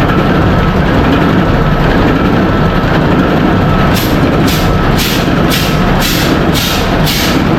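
Steady loud drone of ship engine-room machinery. From about four seconds in, a rhythmic hissing pulse repeats about twice a second over the drone.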